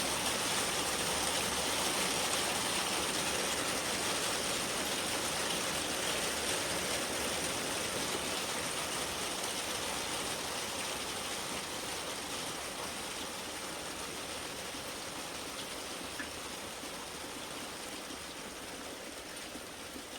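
Steady rain hiss from a passing thunderstorm that slowly dies away as the storm ends. A thin steady high tone runs above it.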